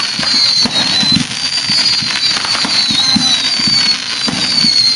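Fireworks going off in rapid succession: dense popping and crackling with low thumps, and high whistling tones that glide slowly downward.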